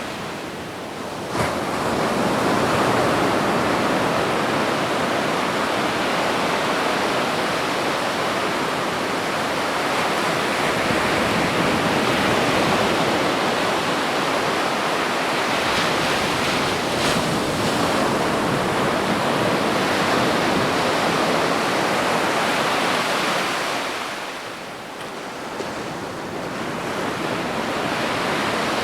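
Ocean waves washing onto a beach: a continuous rush of surf that eases briefly near the start and again late on, then swells back.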